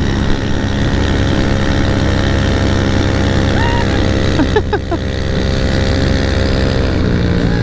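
Small single-cylinder mini-bike engine running steadily at an even pitch, with a few brief higher gliding sounds about four to five seconds in.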